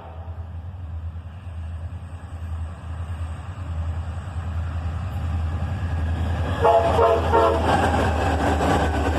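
Freight train led by EMD diesel locomotives approaching, its engine rumble rising steadily. About two-thirds of the way in the air horn is played in a quick run of short choppy blasts, a horn show, then louder wheel and engine noise as the locomotives pass.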